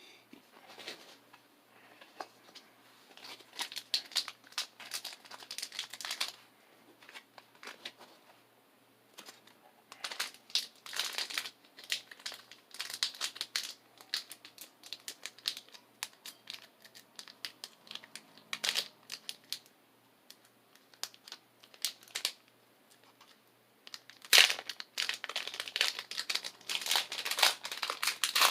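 Foil wrapper of a Pokémon booster pack crinkling and tearing as it is opened. The crinkling comes in several spells with quieter gaps between, and is loudest near the end.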